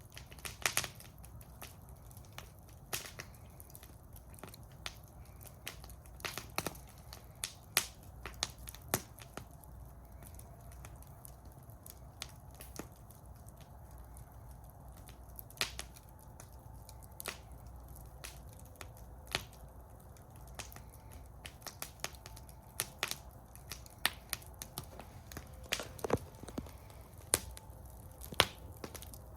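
Campfire in a fire bowl crackling, with irregular sharp pops and snaps over a steady low rumble of the burning wood.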